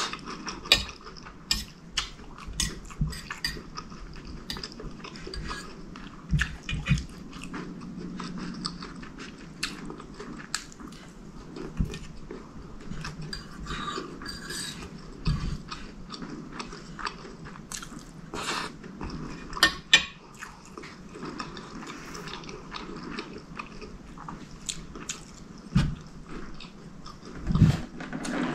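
Close-miked chewing and wet mouth sounds of eating chicken curry with rice, with a metal fork clicking and scraping on a ceramic plate. A few gulps of drink near the end.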